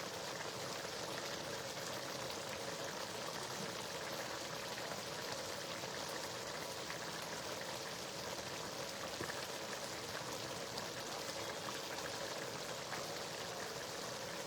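Spinach stew simmering in a pot: a steady bubbling hiss with small scattered pops.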